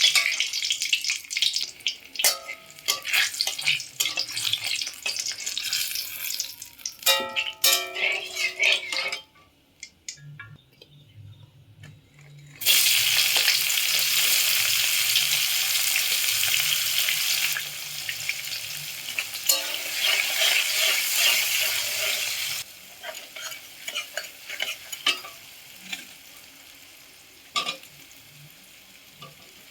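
Food frying in hot oil in a pan, sizzling with the clicks and scrapes of stirring. The sizzle drops out for a few seconds about a third of the way in, comes back loud and steady for about ten seconds, then settles to a softer sizzle with occasional clicks.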